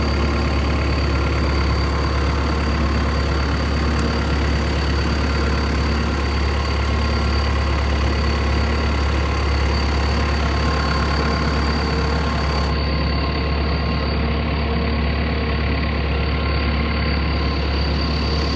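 Old farm tractor's engine running steadily at an even speed, with a thin high whine held over the low engine note.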